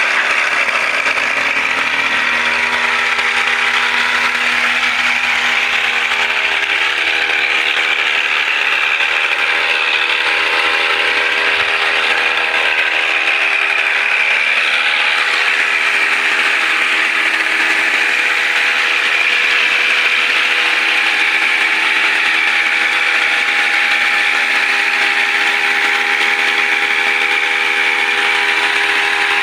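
Brush cutter engine running loud and steady at a constant high speed, its pitch holding level throughout.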